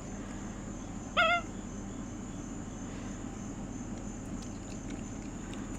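A pet monkey gives one short, high, wavering chirp about a second in, over a steady low background hum.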